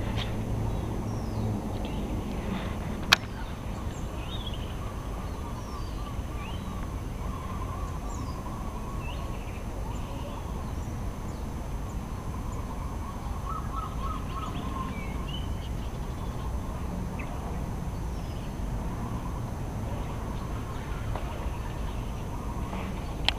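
Birds calling with short scattered chirps over a steady low background noise, with a single sharp click about three seconds in.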